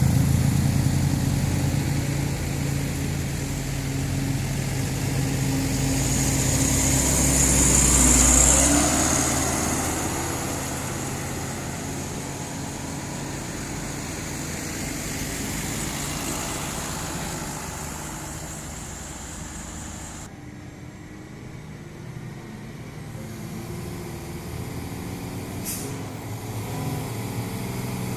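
Heavy diesel truck with a trailer, loaded with sugarcane, labouring past under load on a climb. Its engine is loudest about eight seconds in, with a high hiss, then fades away. About twenty seconds in the sound drops suddenly to quieter road traffic.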